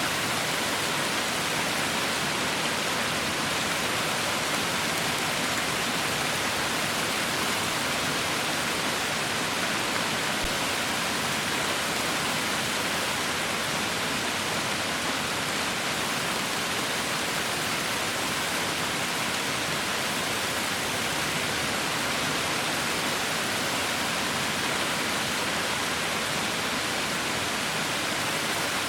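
Heavy rain falling in a steady, even hiss with no breaks or separate drops standing out.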